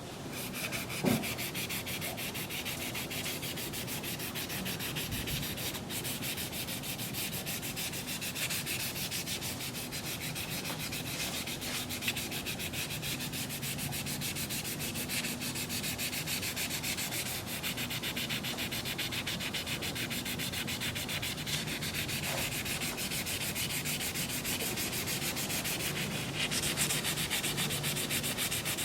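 Micro-mesh abrasive pad rubbed back and forth over an Oster 76 hair clipper's case to polish out scratches. The footage is fast-forwarded, so the rubbing strokes come very rapid and even.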